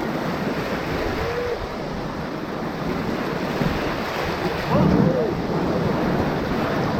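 River whitewater rushing and churning around a raft as it surfs a small hole on the rapids, with wind on the microphone. Short voices rise briefly over it about a second in and again near five seconds.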